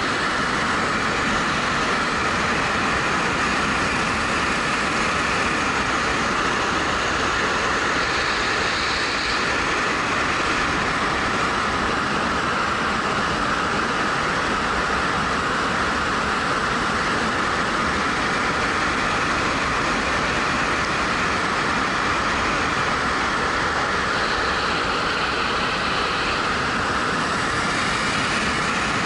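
Steady wind and road noise of a 2013 Suzuki GW250 motorcycle at speed, picked up by a camera mounted on the rider's helmet, so wind rushing past the helmet covers most of the engine.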